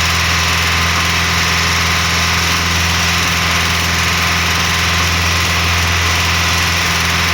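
Volkswagen Golf Mk1 GTI's inline four-cylinder petrol engine running steadily at an even speed, with no revving.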